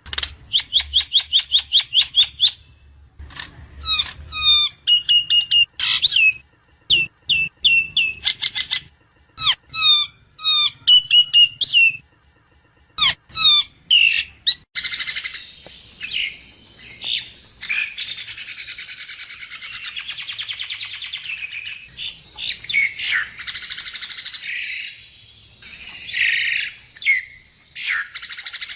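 Javan myna (jalak kebo) singing: a fast run of short clipped notes, then clear whistled notes in short, gliding phrases, and from about halfway through a dense, harsh chattering song.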